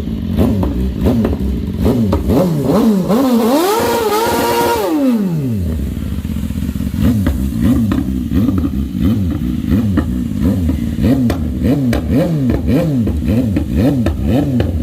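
Engine being revved hard over and over in quick blips. About three seconds in it is taken up to a high pitch and held briefly, then drops away near the five-second mark, before the quick rev blips resume.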